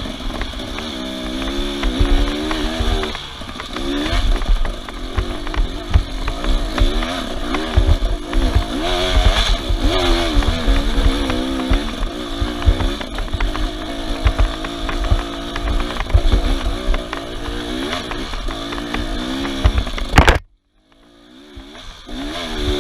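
Off-road vehicle engine revving up and down over and over, with heavy low thumps underneath. The sound cuts out abruptly for about a second and a half near the end, then the engine comes back.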